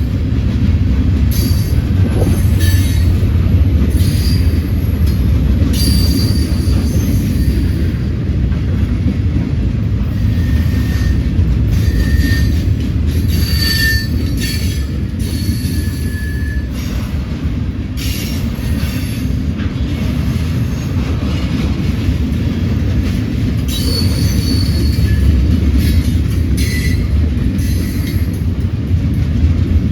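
Freight train rolling past: a steady low rumble of the cars, with brief high-pitched wheel squeals and sharp clanks now and then.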